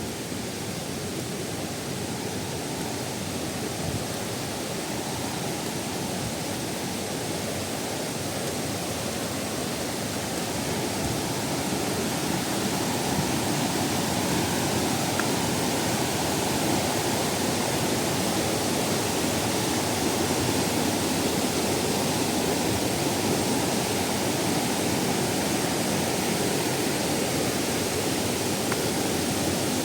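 Waterfall water rushing and splashing in a steady roar, growing a little louder about a third of the way in.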